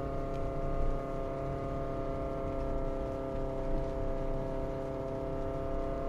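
Honda Fit 3 hybrid's 1.5-litre four-cylinder engine heard from inside the cabin, driving the car in first gear of its i-DCD dual-clutch gearbox and running at steady revs. First gear is very low-geared, so the engine turns fast for a road speed of only about 20 km/h.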